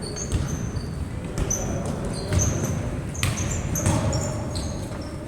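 Players' shoes squeaking in short high chirps on a court floor, with a ball bouncing several times and voices in the background.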